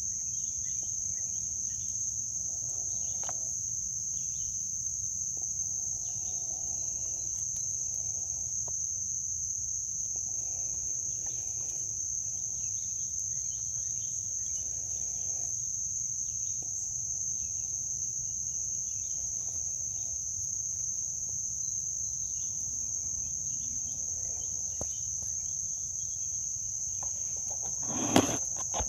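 Steady, unbroken high-pitched insect chorus over a low background rumble, with a single short knock near the end.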